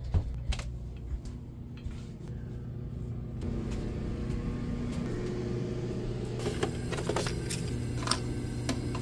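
Steady low hum of a yacht's onboard machinery, with scattered light knocks and clicks of footsteps and handling. Near the end come plastic clicks as a coffee pod is loaded into a Keurig single-serve brewer.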